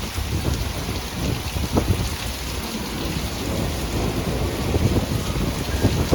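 Heavy thunderstorm rain, dense and pattering, with a low rumble of thunder underneath.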